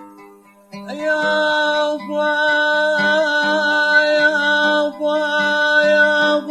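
Male voice singing long, held, wavering notes without words in a traditional Euphrates folk song, over a steady low drone. It comes in about a second in and pauses briefly twice, as if for breath.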